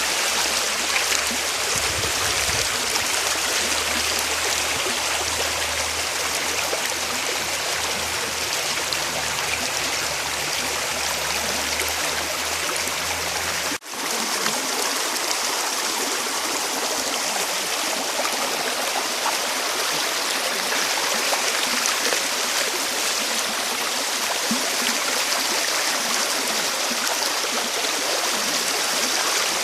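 Steady rush of running water from a flowing stream. Just before halfway the sound briefly cuts out and resumes, and a low rumble underneath is gone after the break.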